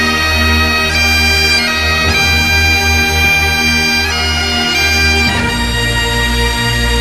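Bagpipe music: a slow melody of long held notes over a steady drone, the notes changing every second or two, with the low drone shifting deeper about five seconds in.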